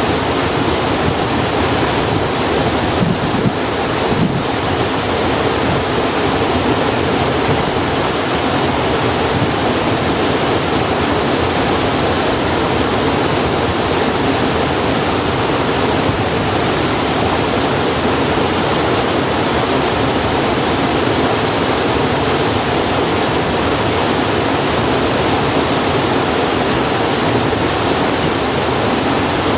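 Steady, loud rush of flowing water, with a couple of faint snaps about three and four seconds in.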